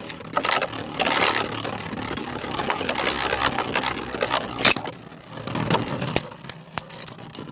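Two Beyblade spinning tops whirring and rattling against each other, with several sharp clacks of collision and one loud hit near the five-second mark. After that they spin more quietly, with a few scattered ticks.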